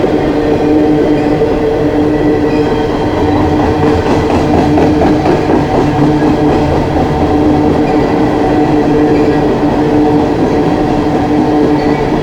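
Long coal train rolling past, its cars giving a steady loud rumble with a constant droning tone over it.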